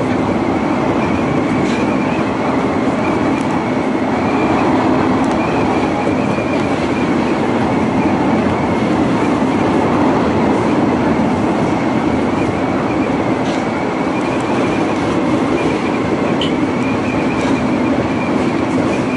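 Hanshin Railway electric train running at speed, heard from inside the passenger car: a steady rumble of wheels and traction motors with a faint high whine and a few light clicks.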